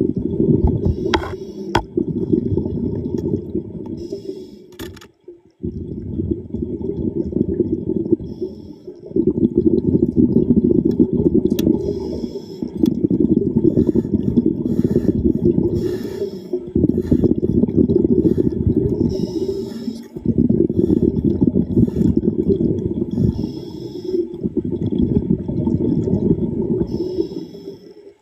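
Underwater rumble of a diver's exhaled air bubbles, coming in long bursts about every three to four seconds with short breaks, with scattered sharp clicks.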